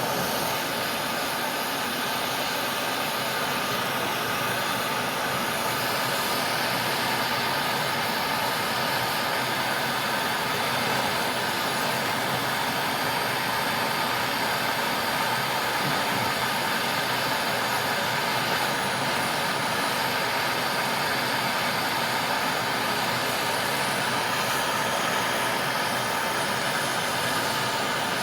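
Brazing torch on air-conditioner copper piping, its flame giving a steady roaring hiss throughout.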